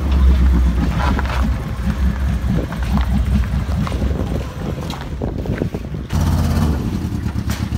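Audi sedan's engine running hard as the car drifts sideways on ice, a loud pulsing engine note. The sound changes abruptly about six seconds in.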